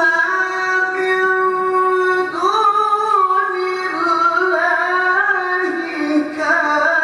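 A high voice chanting Qur'an verses in the melodic tilawah style. It holds long, drawn-out notes and slides between pitches in ornamented runs.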